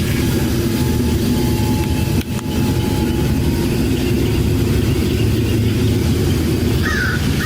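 A steady low engine rumble, like an engine idling, with a brief break about two seconds in.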